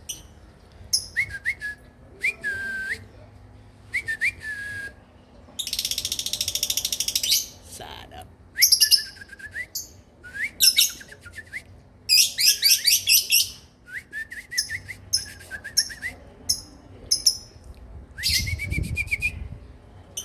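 Songbird singing a varied song: fast high trills and rattles mixed with whistled notes that slide downward, in phrases with short pauses between.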